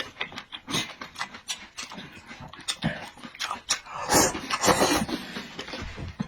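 A person eating noisily: chewing and mouth smacking in irregular bursts, with longer wet stretches about a second in and again around four to five seconds in.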